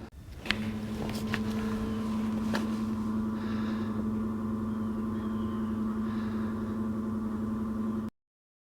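120-volt submersible sump pump running just after being plugged in, a steady hum with one even tone, starting about half a second in. It cuts off suddenly near the end.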